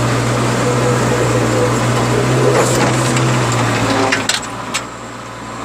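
Diesel engine of a JCB backhoe loader running steadily, then dropping in level about four seconds in, with a few sharp knocks around that point.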